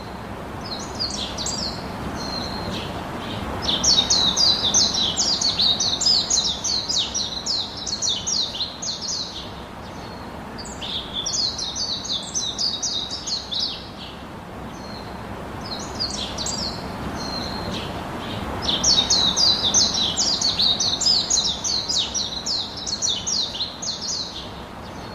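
Small songbirds chirping in rapid, high-pitched bouts, three long runs of quick notes with quieter gaps between, over a steady low background hiss.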